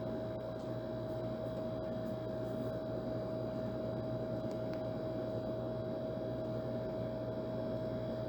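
Old air conditioner running steadily: an even rush of air with a constant hum held on one clear tone and a lower hum beneath it.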